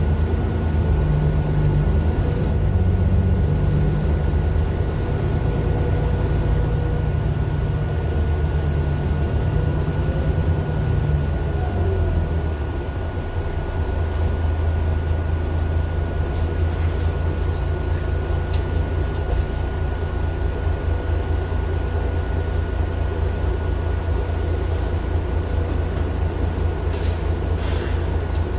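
Mercedes-Benz Citaro LE bus's Daimler OM 457 hLA six-cylinder diesel, heard from inside the cabin, running strongly for the first twelve seconds or so. The engine note then drops and settles to a steadier, lower running, with a thin high whine throughout and a few faint ticks near the end.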